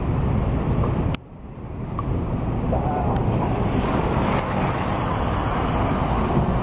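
Wind rumbling on the microphone outdoors, a steady low noise that drops out abruptly about a second in and builds back up.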